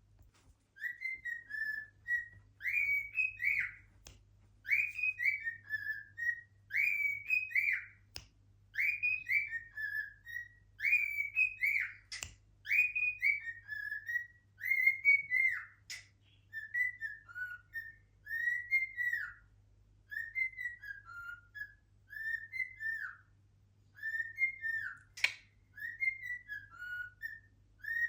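Cockatiel whistling a long run of short, bright, rising-and-falling whistled notes in quick phrases, repeated over and over, with a few sharp clicks in between.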